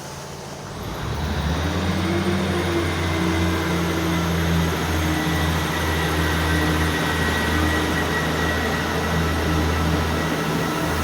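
Class 156 diesel multiple unit setting off from the platform: its underfloor diesel engines open up about a second in and settle into a steady low drone under power.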